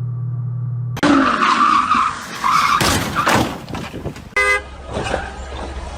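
A steady engine drone breaks off about a second in. Then car tyres screech in a skid, a few loud knocks of a collision follow around the middle, and a car horn gives one short toot.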